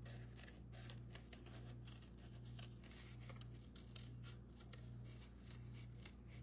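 Faint scissors snipping through thin cereal-box cardboard, a scatter of soft ticks, over a low hum that swells and fades a little more than once a second.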